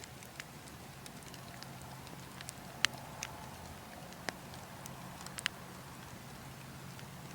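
Burning logs crackling, with scattered sharp pops, the loudest about three seconds in, over a steady low wind noise.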